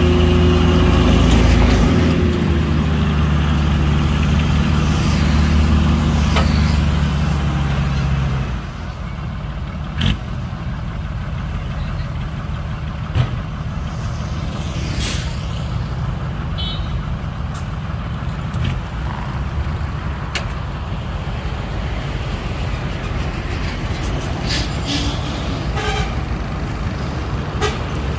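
Heavy dump truck diesel engine running steadily. Its deep, even drone drops away about eight seconds in, leaving a lower engine rumble with a few sharp clicks and short hisses.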